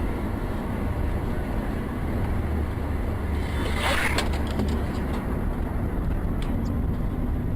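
Steady low road and engine rumble heard from inside a moving car, with a brief rushing noise about four seconds in.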